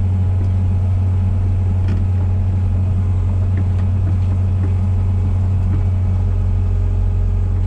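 Komatsu PC120-6 excavator's diesel engine running steadily with a low, even drone.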